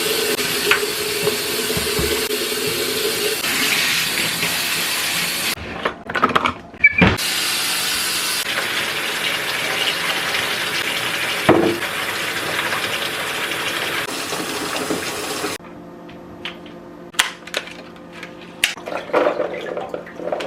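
Kitchen tap running into a sink. It breaks off briefly with a few knocks about 6 seconds in, runs again, then stops about 15 seconds in, followed by light clicks and knocks of kitchen handling.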